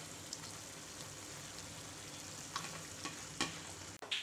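Chicken pieces and potatoes sizzling in a nonstick pan in their own juices with yogurt and no added water: a steady frying hiss, with a few light knocks near the end.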